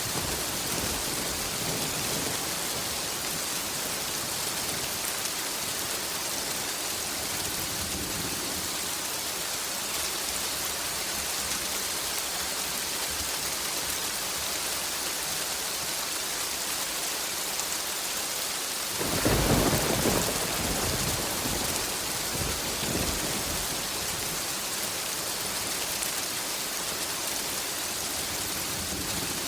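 Steady heavy rain with a clap of thunder about two-thirds of the way through, rumbling for a couple of seconds, and a fainter rumble shortly after.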